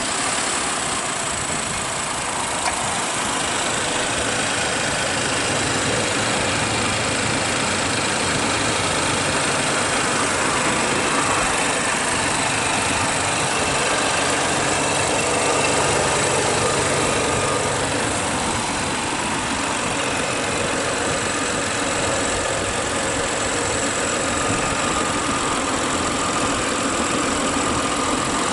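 BMW 640i's 3.0-litre turbocharged inline-six engine idling steadily.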